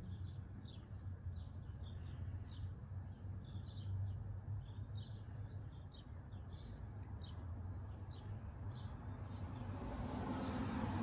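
Outdoor ambience: birds chirping in short, high calls repeated two to three times a second over a low steady hum, with a broader rushing noise swelling near the end.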